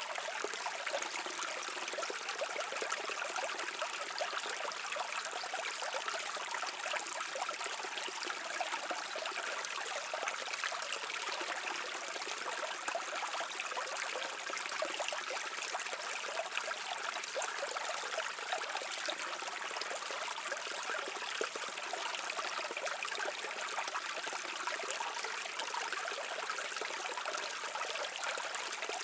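Stream water flowing and babbling steadily, a constant bright rush of water with no deep rumble and no pauses.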